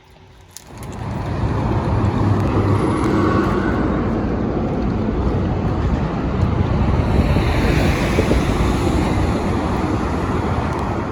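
Steady rush of wind on the microphone over the low rumble of a vehicle on the road, cutting in suddenly about a second in.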